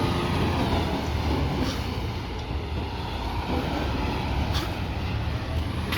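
Peterbilt 520 garbage truck with a McNeilus ZR side-loader body, its engine running steadily, with a couple of brief knocks, about a second and a half in and again near the end.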